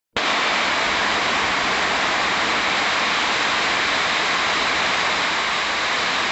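Loud, steady rushing noise of a storm, cutting in abruptly just after the start.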